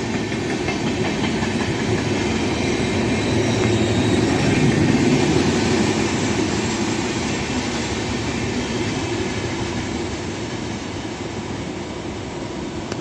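Express train of LHB coaches passing through a station at speed without stopping, its wheels and coaches rumbling steadily on the rails. The noise peaks about five seconds in, fades slowly as the train moves away, and cuts off suddenly at the end.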